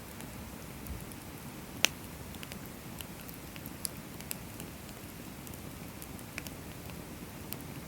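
Firewood burning in a metal fire stand, crackling with scattered small pops over a low steady rush, and one sharp loud pop a little under two seconds in.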